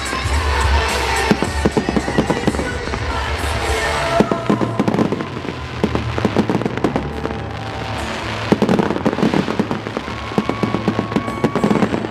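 Fireworks going off in rapid, dense succession: many sharp crackles and bangs, busiest in the first four seconds and thinning a little after.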